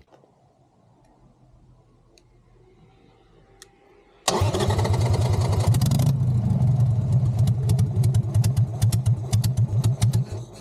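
Harley-Davidson V-twin engine starting suddenly about four seconds in after a quiet stretch, revving briefly and then settling into an uneven, lumpy idle. The battery is dead, so it is being started with the help of a portable jump starter.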